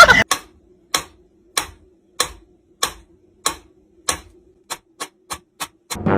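A run of sharp, clock-like ticks, evenly spaced at a little under two per second and then coming faster near the end, over a faint steady hum.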